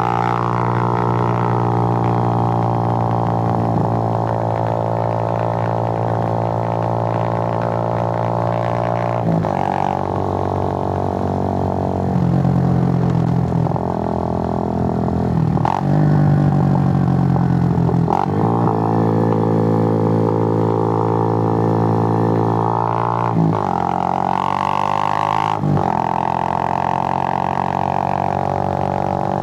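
Suzuki GN125's air-cooled single-cylinder four-stroke engine running under way with a steady droning note. About five times the note breaks off sharply and comes back at a new pitch.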